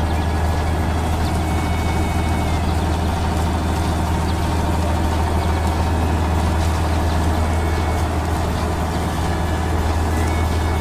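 Heavy vehicle engine running steadily, a deep even hum.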